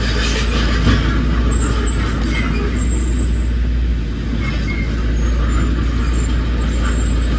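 Heavy diesel construction machinery running steadily, a deep low rumble.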